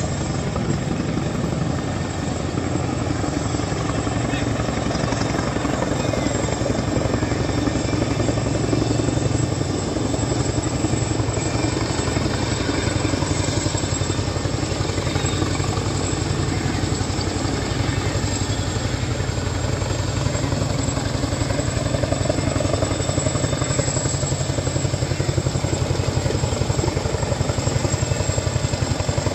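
Boeing CH-47 Chinook tandem-rotor helicopter flying, its rotors giving a steady, rapid chop over a continuous engine and rotor noise.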